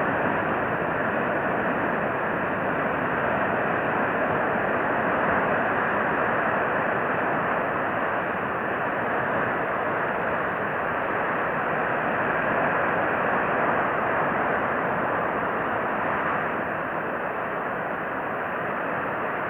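Steady rushing noise with no distinct events and no bird calls, even in level throughout.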